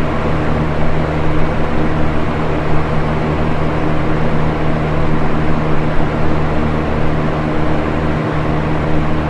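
Box fan running steadily: an even rush of moving air with a steady low motor hum beneath it.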